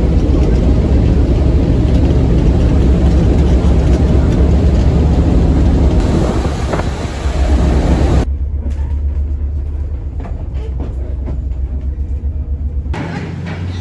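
Steady rumble of travel noise from inside a moving vehicle, a low engine hum under a broad hiss. It changes abruptly about 8 seconds in, when the higher hiss falls away, and again near the end.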